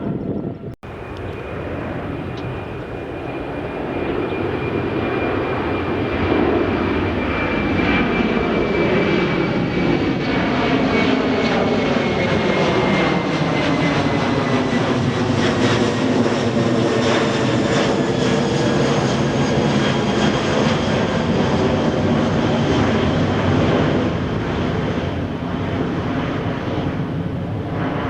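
Jet airliner passing on its takeoff run: loud, dense engine noise that builds over the first few seconds, holds, and eases near the end, with a thin engine whine sliding slowly down in pitch as it goes by.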